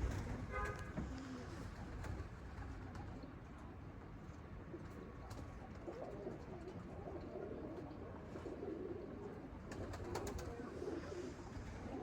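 Domestic pigeons cooing: low, warbling coos repeated several times, most often in the second half.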